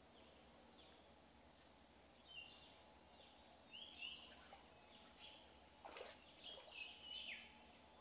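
Near silence broken by faint, scattered bird chirps: short high calls from about two seconds in, coming a little more often toward the end.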